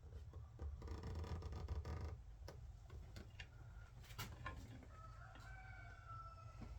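A rooster crowing once, about a second in. A few light clicks of handling follow, and near the end a thin, steady high tone.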